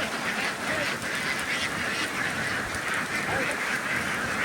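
A large flock of ducks quacking all at once in a dense, continuous chatter of many overlapping calls.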